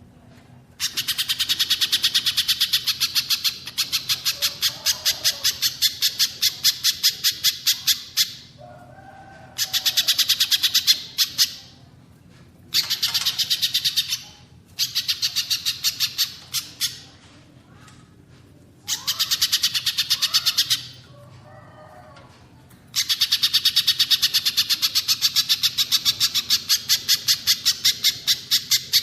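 Recorded bird calls of the pijantung pisang (a spiderhunter) and the cililin, as mixed for a masteran track: long bouts of rapid, sharp, high notes repeated several times a second, broken by short pauses, with a softer, lower call in some of the gaps.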